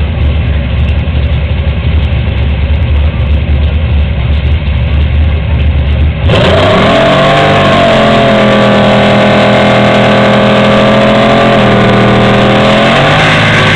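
Car engine sound: a deep, low rumble for about six seconds, then an abrupt switch to a high engine note that climbs, holds steady for several seconds, and dips and climbs again near the end, like an engine being revved and held at high revs.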